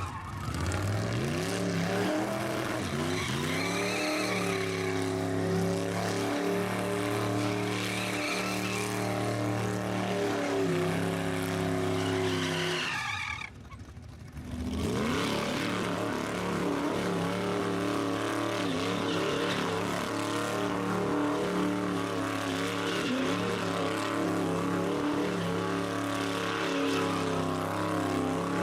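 Rat rod engine held at high revs during a burnout, rear tires spinning and squealing. The revs drop away briefly about halfway through, then climb back up and hold.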